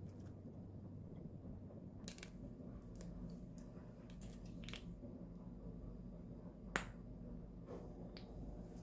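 A few sharp, scattered clicks and light taps over a faint low hum, the loudest click about two-thirds of the way through.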